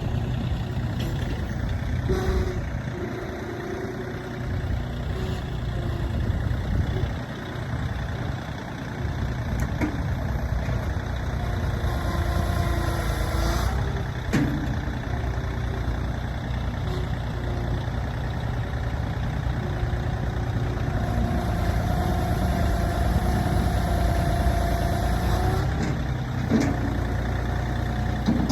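A vehicle engine running steadily throughout, its note shifting now and then, with a few sharp knocks.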